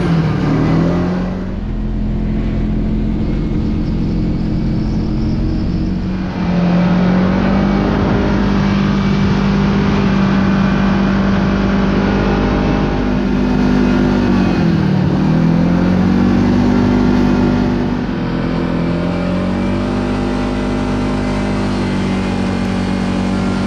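Kawasaki Teryx KRX side-by-side's engine running while driving, its note mostly steady. The engine drops in pitch and climbs back up about two-thirds of the way through as the machine slows and speeds up again.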